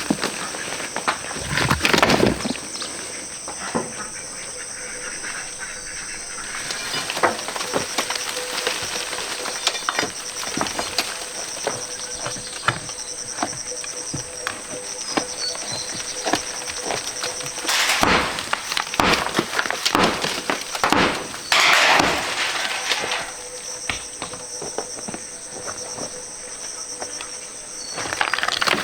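A steady, high-pitched chorus of insects, crickets or cicadas, with scattered knocks and rustles of handwork throughout and a few louder scraping bursts, about 2 s, 18 s and 22 s in.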